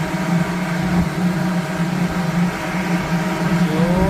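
A steady, loud machine hum: a low drone with several steady higher tones above it.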